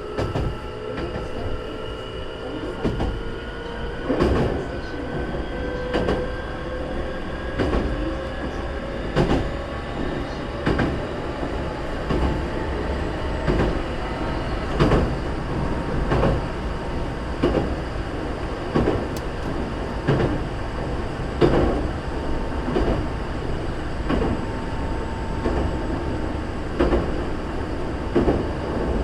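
Onboard running sound of a Hankyu 3300 series electric train. Wheels and rails rumble steadily, with a sharp knock about every second and a half as the wheels cross rail joints, and a tone that rises slowly in pitch over the first ten seconds or so as the train gathers speed.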